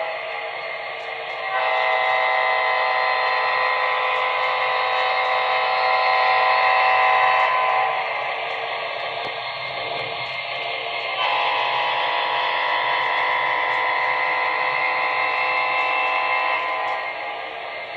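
Multi-note train horn blowing two long blasts, the first starting about a second and a half in and lasting about six seconds, the second starting about eleven seconds in, with a fainter held tone between them.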